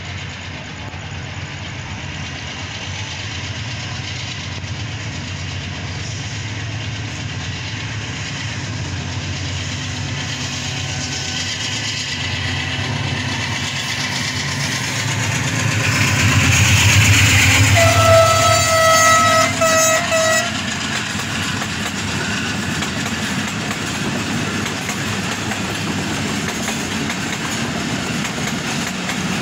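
Diesel locomotive running under power with a train rumbling along the rails, swelling in loudness to a peak a little past halfway. Near the peak it sounds one long horn blast of about two and a half seconds, and then runs on steadily.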